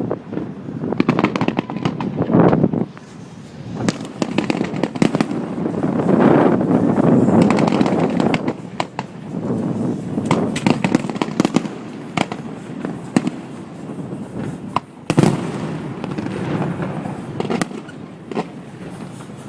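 Fireworks going off: a run of booms and sharp crackling bangs, thickening into a dense crackle in the middle, with one especially strong bang about fifteen seconds in, picked up by a cell phone's microphone.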